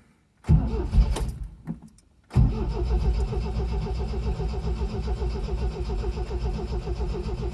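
1974 MGB's starter motor cranking the cold four-cylinder engine without it firing. A short burst of cranking, a brief stop, then about six seconds of steady, rhythmic cranking.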